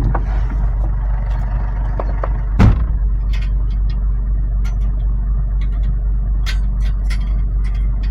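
Truck engine running with a steady low rumble. A single sharp knock about two and a half seconds in is the loudest sound, with a few lighter clicks and knocks scattered around it.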